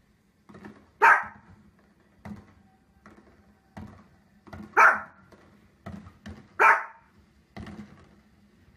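A small dog barking: three loud, sharp barks about two seconds apart, with fainter short yips and thumps between them.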